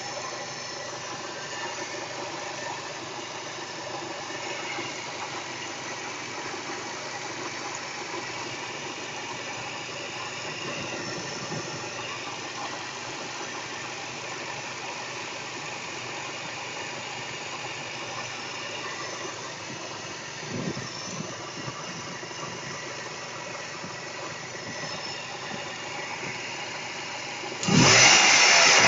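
Toyota Caldina ST215W's 3S-GTE 2.0-litre turbocharged four-cylinder engine idling smoothly at 222,000 km, smoothly enough to keep a coin balanced on it. Near the end it is revved sharply, the pitch rising.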